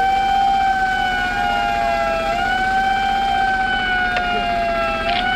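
A siren wailing continuously, its pitch sinking slowly and then jumping back up about every two and a half seconds.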